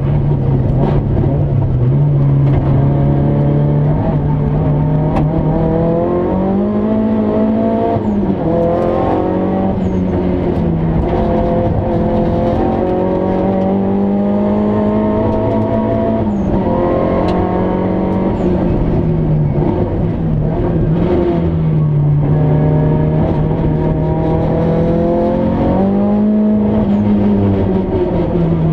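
Nissan Silvia S15's engine at racing speed, heard from inside the cabin: revs climb again and again and drop with each gear change.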